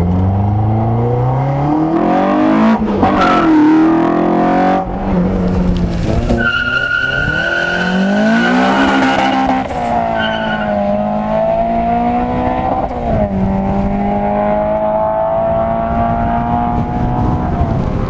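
A car engine revving hard and accelerating through several gears, its pitch climbing and then dropping at each shift, with a high steady whine laid over the middle part.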